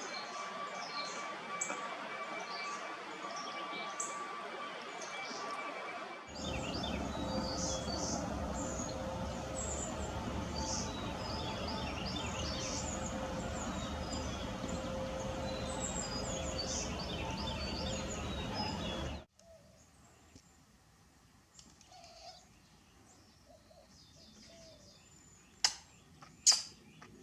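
Birds chirping and calling in short high notes over outdoor background noise, in three spliced stretches. A low rumble runs under the middle stretch, the last stretch is much quieter, and two sharp clicks come near the end.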